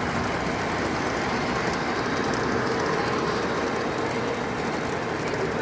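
Model train running on a layout's track, making a steady rolling rumble.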